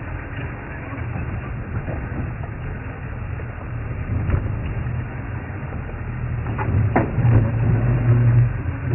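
Safari vehicle's engine running with a steady low hum that grows louder near the end, with a few sharp cracks of snapping wood about halfway through.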